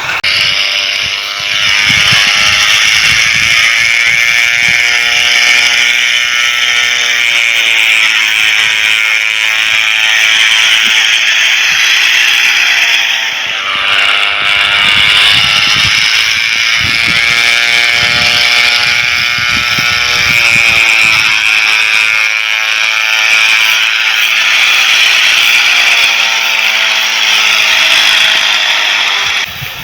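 Toy crop-duster airplane running: a loud, steady mechanical buzzing rattle with an engine-like tone whose pitch sags and recovers several times.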